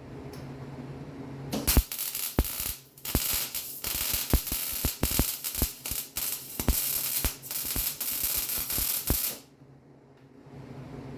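Arc welding on a steel frame cross member: the arc crackles and pops steadily for about seven and a half seconds, starting a couple of seconds in and cutting off near the end. A steady low hum is heard before and after the weld.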